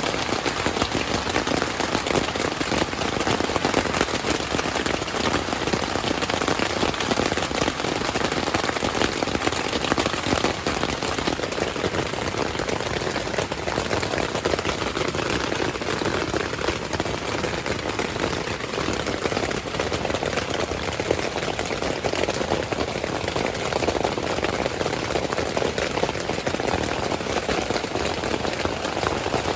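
Heavy rain falling steadily, a dense even patter with fine crackle that holds at one level throughout.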